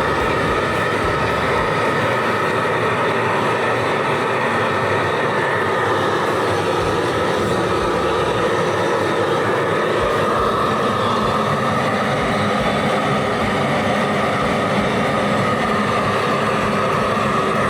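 Shinfuji high-output butane gas torch running steadily at full flame, a loud, even rushing noise with no letup, as the flame is held on water-soaked firewood.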